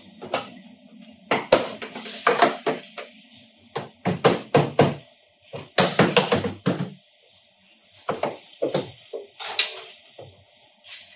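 Irregular knocks and clatter of hard parts and tools being handled in a small room, coming in clusters, with a faint steady hum underneath.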